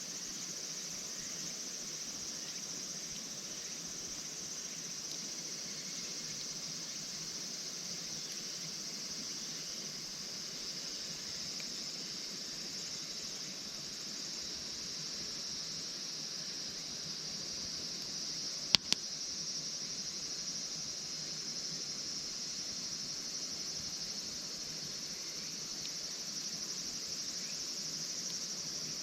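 Steady high trilling of crickets in a continuous chorus. About two-thirds of the way through there is a sharp crack, quickly followed by a second.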